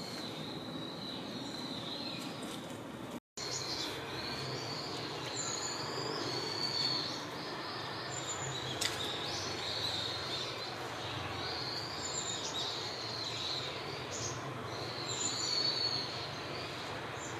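Birds calling with many short, thin, high chirps and whistled glides over a steady outdoor background hiss. The sound drops out for a split second about three seconds in.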